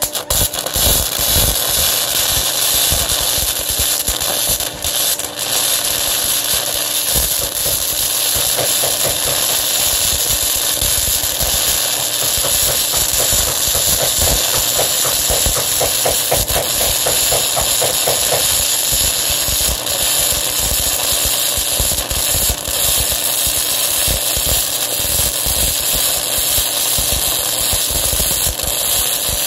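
Flux-core wire-feed welding arc on thick mild steel plate, struck at the start and then crackling and sizzling steadily as a long bead is run. The arc comes from a 120-volt Harbor Freight welder.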